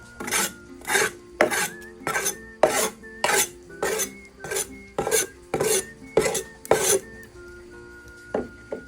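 Repeated scraping strokes, about eleven in a steady rhythm of roughly one and a half a second, stopping about seven seconds in, with two fainter strokes near the end, over soft background music.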